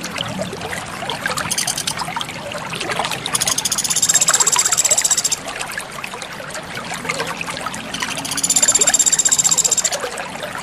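Water trickling steadily, with a small songbird giving a high, rapid trill twice, each lasting about two seconds.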